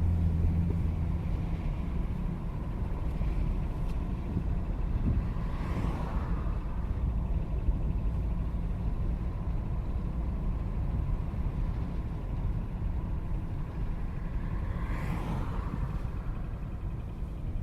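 2017 Ford Raptor pickup driving with a ticking rattle from its driveline that rises and falls with road speed, not engine revs; it shows up only while the driveline is cold, and the owner rules out the integrated wheel ends. A rushing sound swells and fades twice, about six seconds in and near the end.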